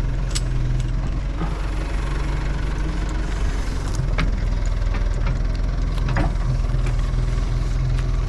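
Backhoe engine running steadily at a low throttle, with a fast, even low chug, and a few short sharp clanks over it.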